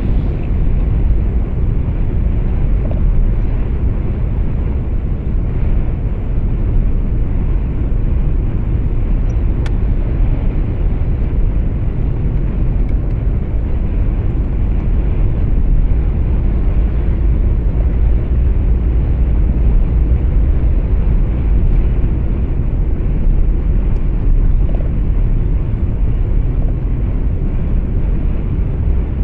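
Steady low rumble of a truck driving on the road, heard from inside the cab: engine and tyre noise with no change in pitch.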